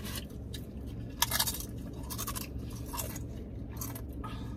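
Close-up chewing of crunchy food: irregular crisp crunches, a sharper one about a second in, over a low steady hum.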